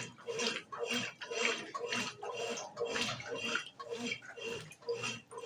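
Brastemp BWG11 11 kg washing machine in its wash cycle, water and laundry sloshing in the tub in regular strokes, about two a second.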